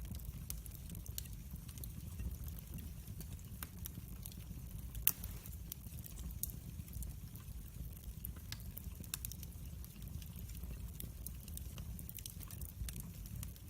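Wood fire in a fireplace crackling: irregular sharp snaps and pops over a low steady rumble, with one louder pop about five seconds in.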